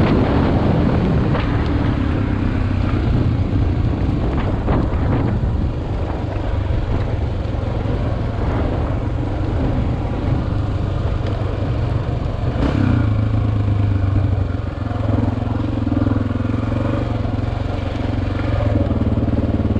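Single-cylinder four-stroke dual-sport motorcycle engine running steadily off-road, its note rising and falling with the throttle, heard close up from a helmet-mounted camera. A few sharp knocks cut through, the clearest about thirteen seconds in.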